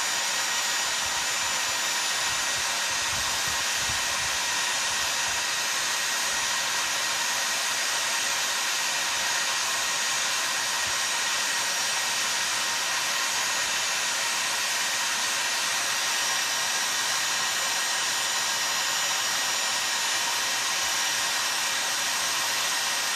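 Heat gun blowing steadily, a constant rushing hiss, as it heats a chainsaw crankcase half so the crankshaft bearing and oil seal can be pressed in.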